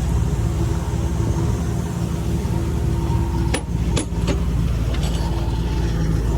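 Heavy diesel engine of earthmoving machinery running steadily at a worksite, with two sharp clicks about three and a half and four seconds in.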